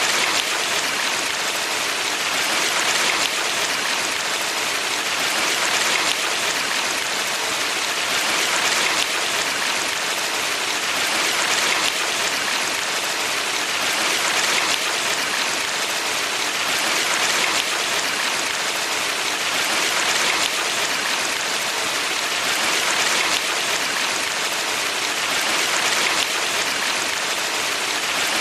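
Mountain valley stream flowing: a steady rush of water, swelling gently about every three seconds.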